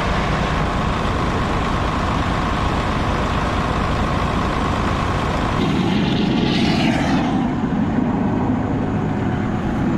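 JCB Fastrac 1125 tractor running steadily. About halfway through its note changes, and a short hiss comes through shortly after.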